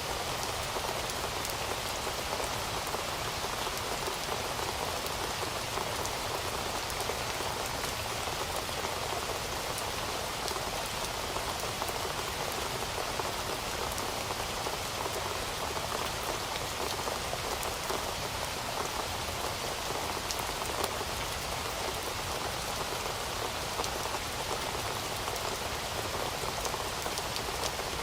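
Heavy rain falling steadily, a dense even hiss of drops with many fine individual drop ticks.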